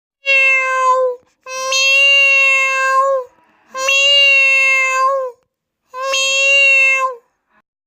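An animal calling four times in long, steady-pitched calls, each lasting about a second and dipping slightly in pitch at the end.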